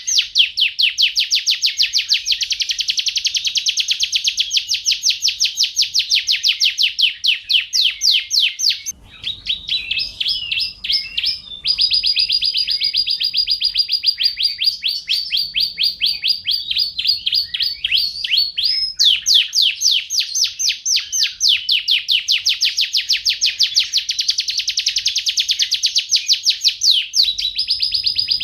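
Domestic canary singing a long, continuous song of fast rolling trills. A little under halfway through, the pattern changes to a held high note under rapid notes, then the fast trills return.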